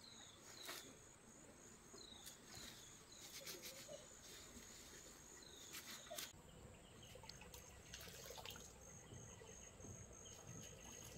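Faint outdoor ambience of an insect chirping in a steady high pulse, about three chirps a second, with a few short, falling bird chirps and faint clicks now and then.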